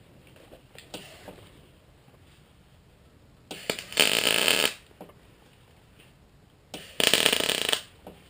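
Two short welding bursts, each about a second long and a little over three seconds apart: a welder laying tack welds on a sheet-metal patch panel.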